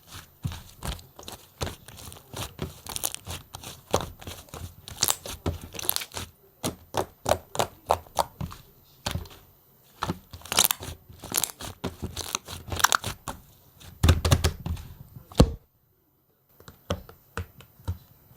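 Soft, fluffy clay slime being squished and stretched by hand, giving rapid irregular crackling and popping clicks. The sound stops for a moment about two-thirds of the way through, then resumes as sparser clicks.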